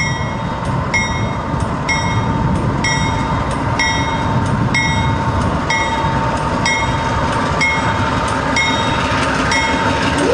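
Diesel locomotive of the CP Holiday Train rumbling as it rolls slowly in, with a bell ringing about once a second.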